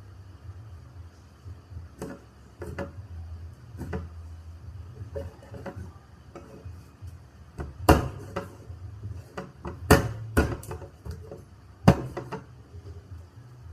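Kitchen handling sounds: scattered knocks and clinks of dishes and utensils, with three sharp, loud knocks about two seconds apart in the second half, over a low steady hum.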